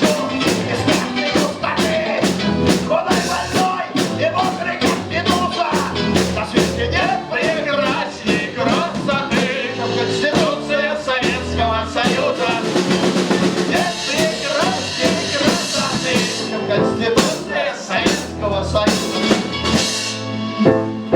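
Live rock band playing a song: a steady drum-kit beat under bass, keyboards and a wavering melody line.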